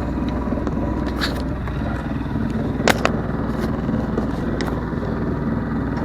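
A sailboat's engine running steadily under way on a windless sea, with a few sharp knocks, the loudest about three seconds in.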